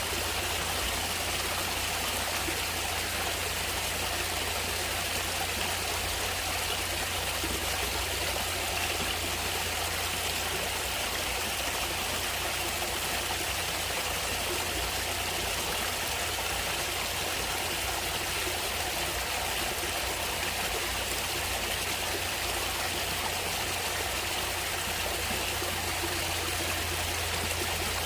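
Natural running water, a steady, even rush with no breaks or changes.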